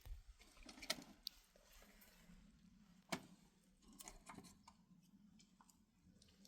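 Near silence: quiet room tone broken by a few faint, scattered clicks, spaced irregularly.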